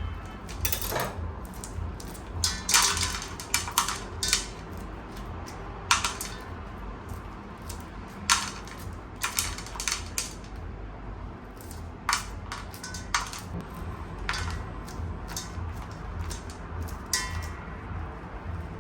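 Kitchen pots and utensils clinking and knocking, a couple of dozen sharp clatters scattered irregularly, over quiet background music with a steady low beat.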